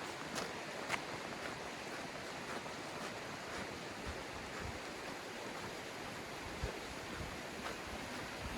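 A glacial river rushing steadily over rocks, with a few irregular steps crunching on river stones.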